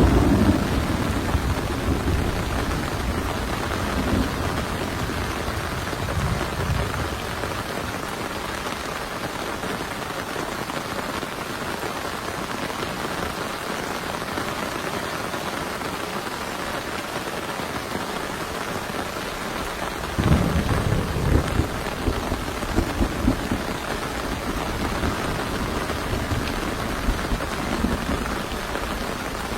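Heavy rain falling steadily, with thunder rumbling low at the start and again in a stronger spell about two-thirds of the way through.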